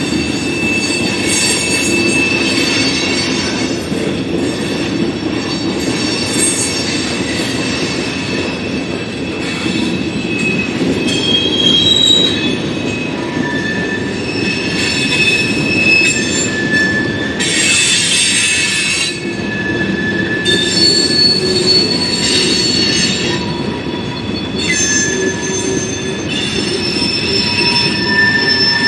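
A freight train of covered hoppers, tank cars and boxcars rolling steadily past at close range: steady rolling noise of steel wheels on rail, with high-pitched wheel squeals that shift in pitch and come and go, and a few short stretches of harsh hissing screech.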